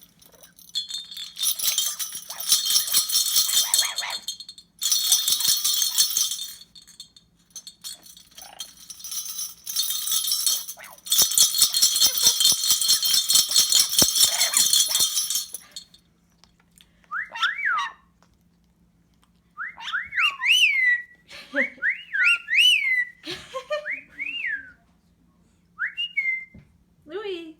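Small bells jangling hard in about four bouts, the longest about four seconds, then a parrot whistling a string of short notes that swoop up and down.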